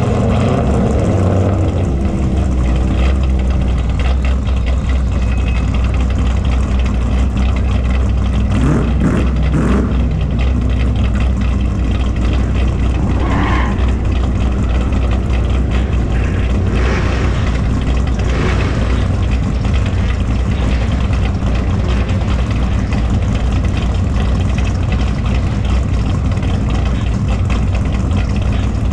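Car engine idling steadily, with a deep, even hum. A few brief rising-and-falling sounds pass over it, about nine, thirteen and eighteen seconds in.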